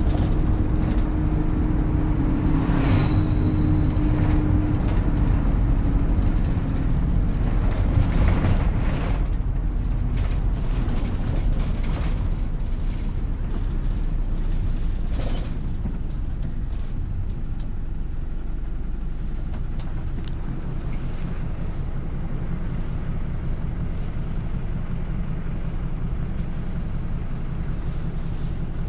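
City bus running: steady low engine and drivetrain rumble, with a whine that fades out within the first several seconds and a sharp high squeal about three seconds in. From about halfway it settles to a quieter steady rumble.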